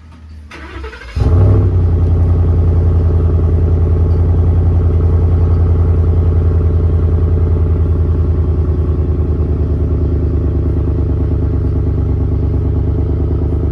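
Cold start of a 2017 Ford F-150's 5.0 L V8: about a second of cranking, then the engine catches with a loud flare about a second in and settles into a steady, fast cold idle. The exhaust runs through a glass pack in place of the stock muffler and is pretty loud.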